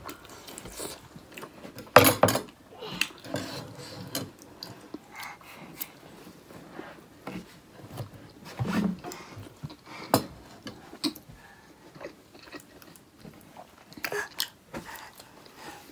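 Close-up eating sounds: momos (steamed dumplings) being bitten into and chewed, with scattered small clicks and taps. A louder sharp sound comes about two seconds in.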